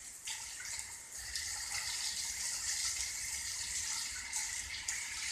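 Heavy rain pouring down in a steady hiss, growing louder about a second in.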